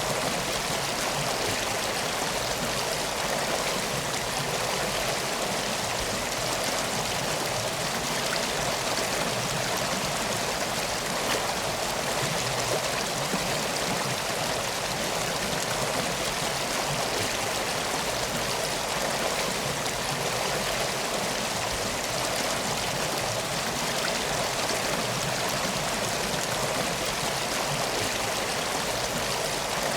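Steady, unbroken rushing of a flowing river.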